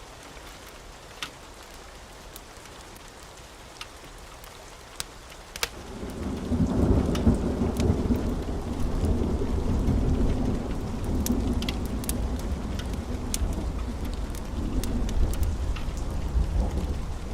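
Steady rain with scattered sharp ticks. About six seconds in, a long, low rumble of thunder swells up and keeps rolling.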